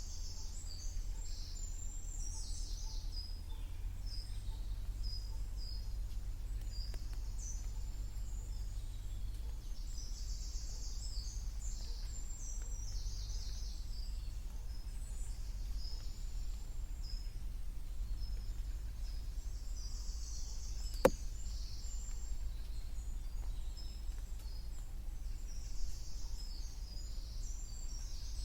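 Small woodland birds calling and singing, many short high chirps overlapping all the way through, over a steady low rumble. A single sharp tap about 21 seconds in.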